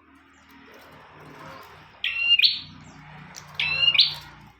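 Prenjak (prinia) giving two short, loud, sharp calls, about two seconds in and again about three and a half seconds in, over a faint low hum.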